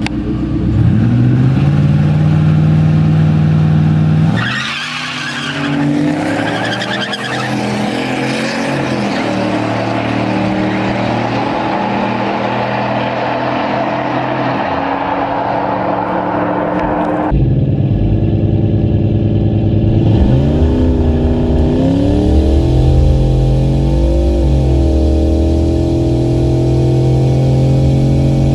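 Turbocharged 4.6-litre two-valve V8 of a Ford Thunderbird drag car held at steady revs on the foot brake for about four seconds, then launching with a sudden rush and pulling up in pitch down the strip. After an abrupt cut about two-thirds through, the engine runs with the revs rising and falling.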